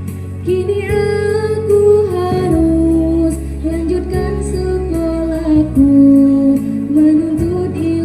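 A song: a voice sings a slow melody with long held, wavering notes over instrumental backing with a steady beat.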